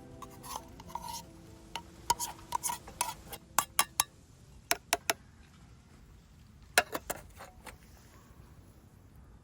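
Metal camp cookware and utensils clinking and knocking together in short irregular clusters, busiest in the first few seconds, with a few more knocks a little past halfway.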